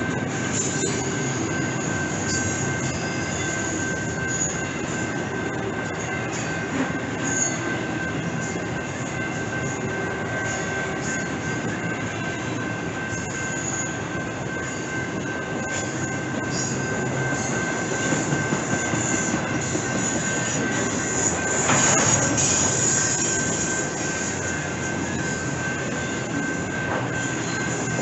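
BNSF double-stack intermodal freight train rolling past: steady noise of cars and wheels on the rails, with a thin, steady high-pitched wheel squeal over it. It swells louder for a moment about three quarters of the way through.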